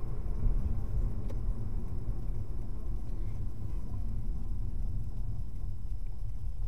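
Steady low rumble of a car driving: engine and road noise with no sharp events.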